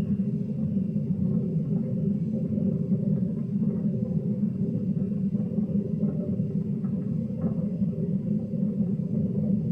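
Hoover front-loading washing machine running its spin-only program at low speed before the first spin-up, a steady low rumble with a few faint ticks. The owner says the machine's bearings are faulty.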